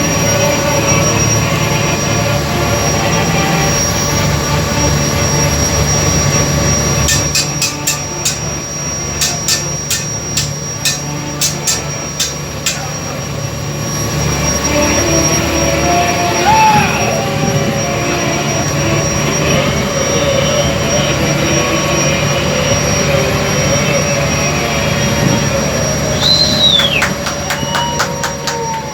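Steady engine drone of a tour boat under way, with a run of sharp, evenly spaced clicks twice and a couple of short high falling glides.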